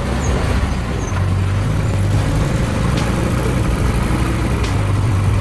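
A motor vehicle running steadily: a low engine hum under a broad, even rushing noise.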